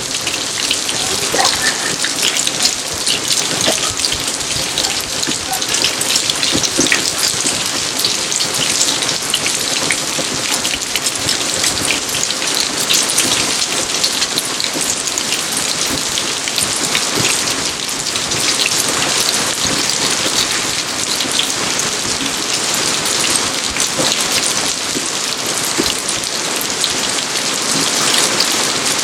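Steady rain falling on a garden, a dense even hiss with many separate drop hits.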